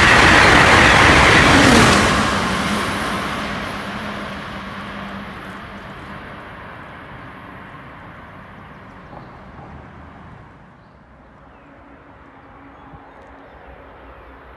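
Amtrak Avelia Liberty high-speed electric trainset passing: a loud rush of wheel and air noise for about the first two seconds as the last cars go by, then a steady fade as the train pulls away.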